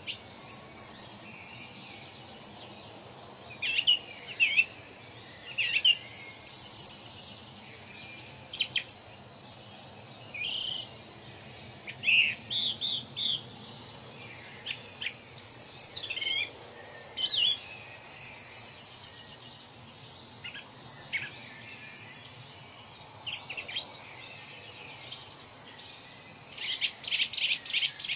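Several birds calling and singing in short chirps and trills, one after another, over a steady low background hiss; a rapid run of repeated notes comes near the end.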